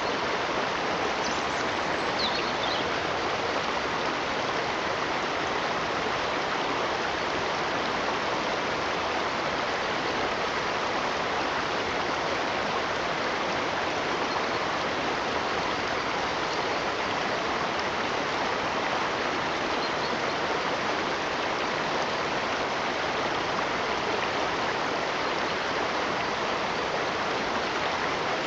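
Steady rush of running water, like a stream flowing over rocks, even and unbroken throughout.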